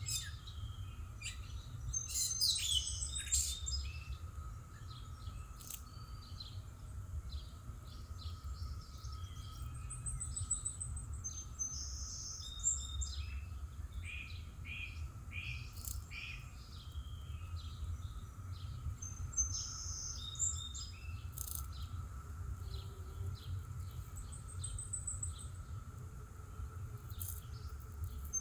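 Songbirds chirping and singing, in many short, high calls and trills throughout, over a steady low outdoor rumble.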